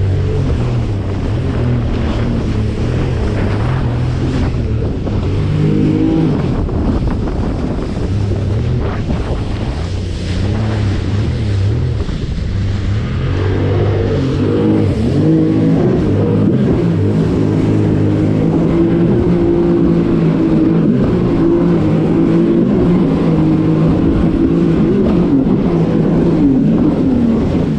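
Jet ski engine running under way, its pitch shifting up and down with the throttle, with wind buffeting the microphone.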